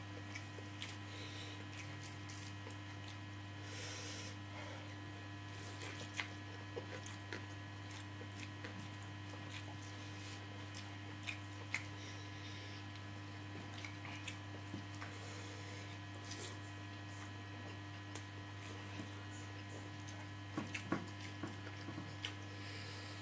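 A person eating by hand: soft chewing and mouth clicks, with scattered small smacks and squishes as fingers work rice on a plate, over a steady electrical hum.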